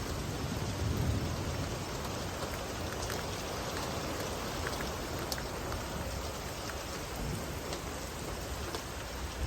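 Steady rain falling, with scattered drops ticking on a surface; the tail of a low thunder rumble fades out in the first second or so.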